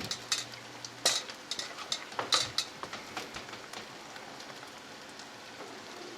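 Chicken-and-batter mix sizzling in an oiled frying pan. A few sharp scrapes and clinks of a utensil against the cookware come in the first couple of seconds, then a steady sizzle.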